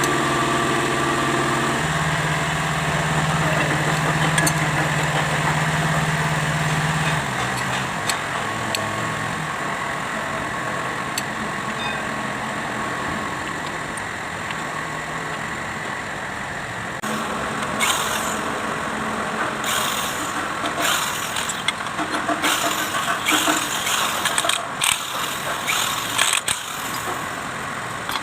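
Kubota D905 three-cylinder diesel engine running with a steady note, which drops and dies away about eight seconds in. From about seventeen seconds in there are irregular short noisy bursts.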